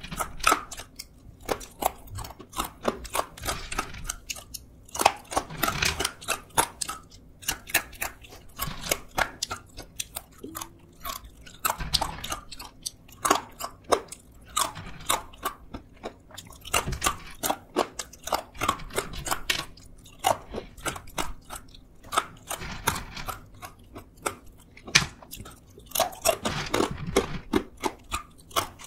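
Crunching and chewing of crisp fried sweet potato sticks: quick runs of sharp crackles, mouthful after mouthful, with short pauses between.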